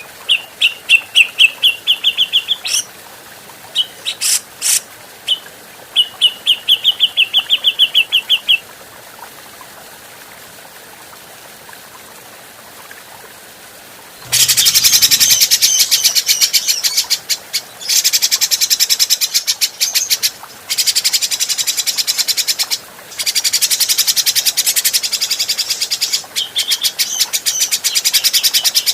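Grey-cheeked bulbul (cucak jenggot) calling. First come quick series of short, clear repeated notes, and after a pause of about five seconds a loud, harsh, very rapid chatter in long runs broken by brief gaps.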